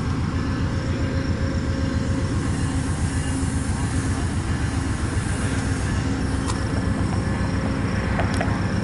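Diesel locomotive of a train running steadily at close range: a continuous low rumble with a steady engine tone.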